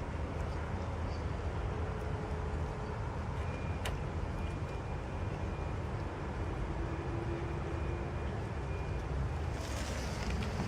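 Steady low outdoor rumble, with a single sharp click about four seconds in and a short hiss near the end; no cat is heard.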